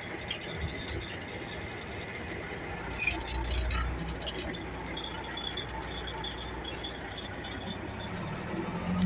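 Tractor-trailer cab rattling and clinking while the truck is driven, over a low engine rumble that grows louder about three seconds in.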